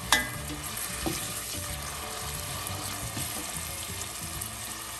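Julienned carrots sizzling as they fry in hot oil in a stainless steel pot, stirred with a slotted spoon. A sharp clink just after the start, with a short ring, as the spoon strikes the pot, and a lighter knock about a second in.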